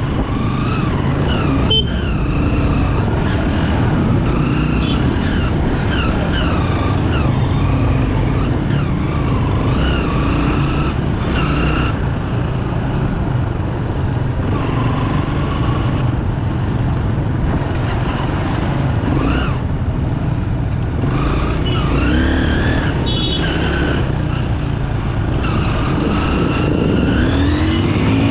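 Bajaj Pulsar 200 single-cylinder motorcycle engine running on the move, its pitch rising and falling again and again with throttle and gear changes over a steady low rumble.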